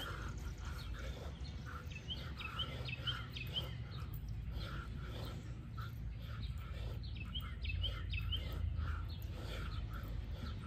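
Birds chirping: many short calls repeated throughout, some sweeping upward, over a steady low rumble.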